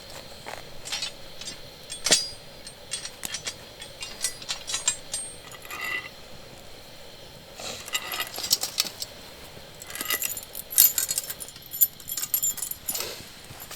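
Irregular light clinks and rattles of small hard objects being handled, coming thickest in the second half.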